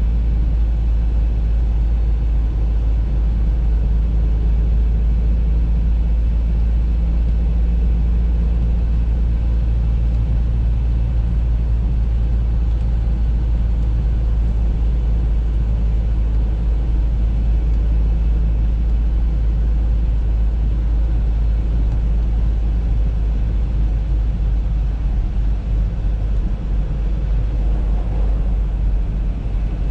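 Steady low rumble of an Audi A3 driving along: engine and road noise, unchanging throughout.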